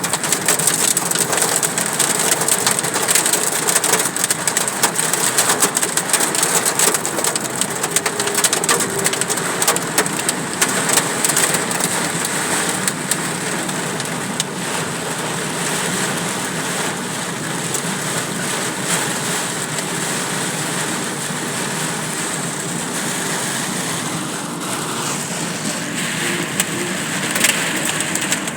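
Hail and heavy rain drumming on a car's body and windshield: a dense clatter of hard hits that thins after about twelve seconds into a steadier rush of rain.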